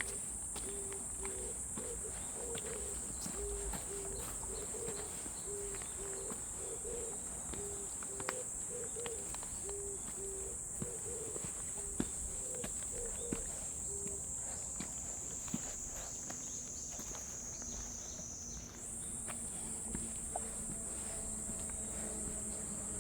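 Cicadas buzzing in a loud, continuous high drone that slowly sags in pitch and jumps back up about 19 s in. Beneath it, a bird gives a low two-part call over and over, roughly once a second, until about halfway through, with scattered light footstep ticks.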